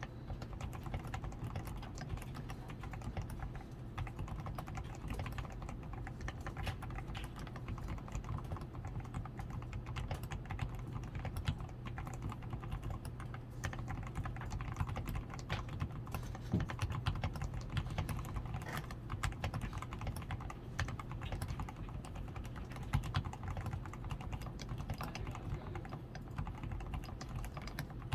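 Continuous typing on a DAREU A87 Pro mechanical keyboard, a steady, irregular run of key clicks. The keyboard is modded: switches fully lubricated with Krytox 105, PCB tape mod, foam added to the switches, lubed stabilizers and XDA keycaps.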